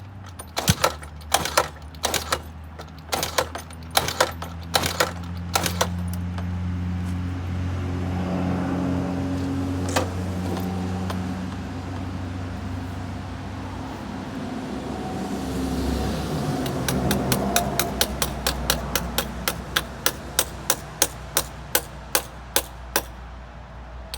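A wrench tapping repeatedly on the alternator of a 50cc scooter's Yamaha-type engine, about two taps a second, to coax a reluctant cold start. Midway the engine runs for several seconds with its pitch rising and falling, then the tapping resumes, quicker.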